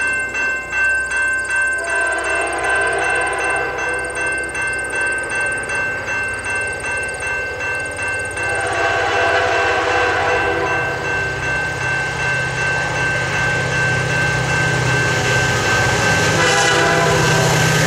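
Level-crossing bell ringing in quick, even strokes as a Canadian Pacific freight approaches, with the train's horn sounding. About halfway through, the two-stroke diesel engines of its lead GMD SD40-2 locomotives build to a louder rumble as they near.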